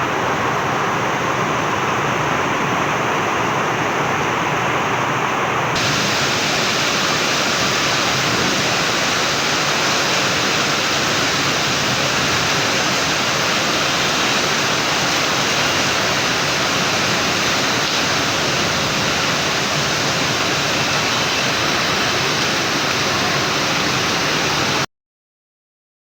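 Heavy rain pouring down in a steady, dense hiss that gets brighter about six seconds in, then cuts off abruptly near the end.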